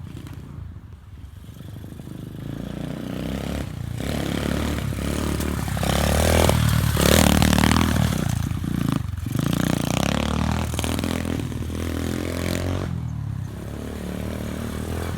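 Pit bike engine bump-started by rolling the bike in gear and dropping it in, then running and revving. It gets louder over the first seven seconds or so, then eases a little and keeps running.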